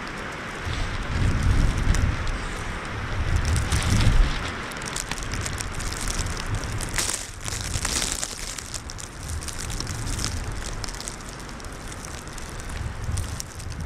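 Plastic trash bag crinkling and crackling. Gusts of wind rumble on the microphone, loudest in the first few seconds.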